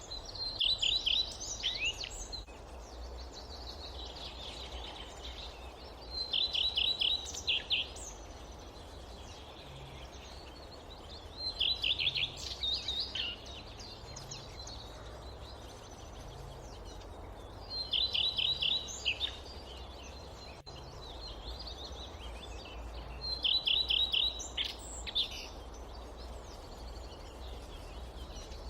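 A songbird repeating the same short song, a quick run of high notes lasting about a second and a half, five times at intervals of roughly six seconds. Underneath is a steady low rumble of wind in the forest.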